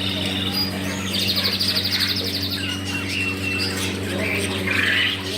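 Small caged birds chirping, with a rapid high trill about a second in, over a steady low hum.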